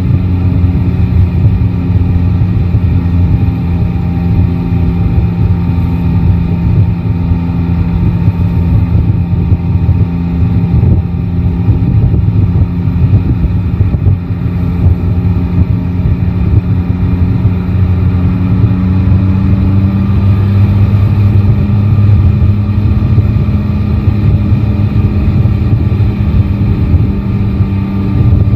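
Yamaha Tracer 9 GT's inline three-cylinder engine running steadily under way, with tyre and wind noise. Its note rises a little about two-thirds of the way through.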